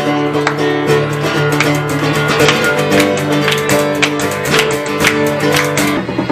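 Acoustic guitar strummed in regular strokes over sustained chords, with no singing.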